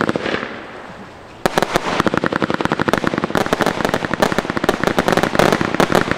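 Weco Dynasty 147-shot compound firework battery firing. A single crack at the start fades into a hiss. From about a second and a half in comes a fast, dense run of crackling reports, many per second, as the shells burst into crackling stars.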